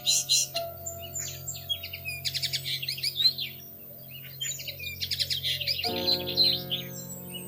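Small songbirds twittering in quick bursts of high, thin chirps, over soft background music of long held notes that change chord about six seconds in.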